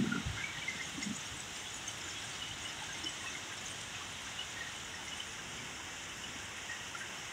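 Heavy thunderstorm downpour: rain falling steadily with an even hiss, dotted with scattered nearby drops.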